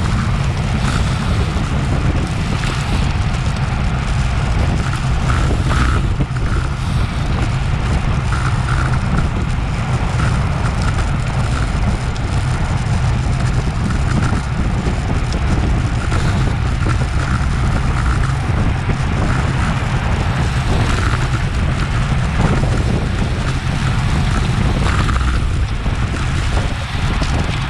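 Wind buffeting an action camera's microphone while it rides along at racing speed on a bicycle: a steady, heavy low rumble, with faint scattered ticks and hiss above it.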